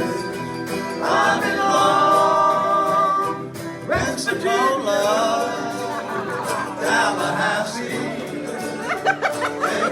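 A live band playing a country-style instrumental intro, with a wavering melody over steady accompaniment.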